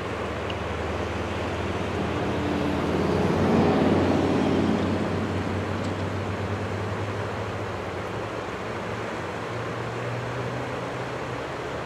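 Jet airliner's engines running steadily at low power, a distant hum over a broad rush, swelling briefly about four seconds in.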